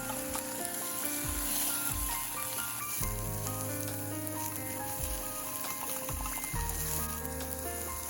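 Food sizzling and frying in a pan, a steady crackling hiss, under background music.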